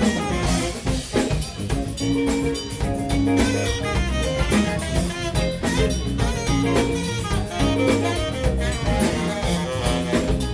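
Soul band playing live, an instrumental stretch with drums keeping a steady beat under bass and guitar.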